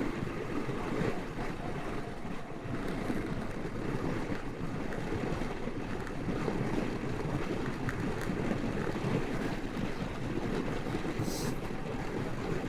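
Steady wind buffeting the microphone, a continuous low rumbling rush with no distinct tones.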